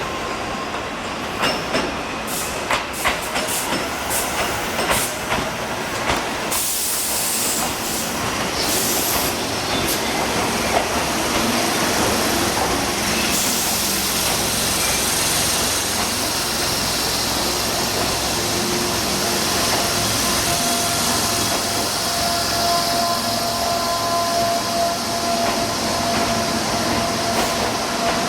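Electric commuter train on the Tobu Noda Line running along the track: sharp wheel clicks in the first few seconds, then a steady rolling noise with a hiss from about six seconds in.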